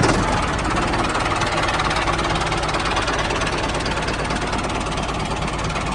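Small motor of a DIY mini tractor running steadily with a fast, even buzz.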